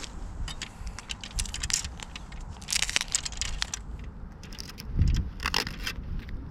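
Close scraping, rustling and clicking handling noise with scattered low thumps, loudest about five seconds in.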